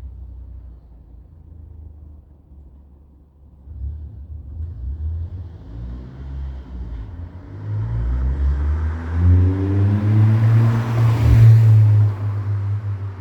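Car engine heard through an aftermarket 63 mm exhaust with an Etuners downpipe, Joombra resonator and Deikin muffler: a low rumble for the first few seconds, then rising in pitch and loudness as it accelerates, loudest near the end.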